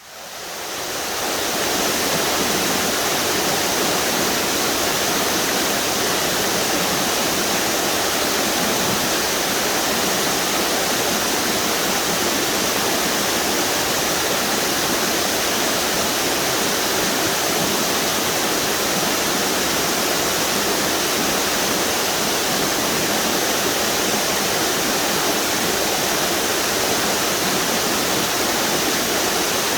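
A string of river waterfalls on the Duck River rushing steadily, a dense even roar of falling water that fades in over the first second or two.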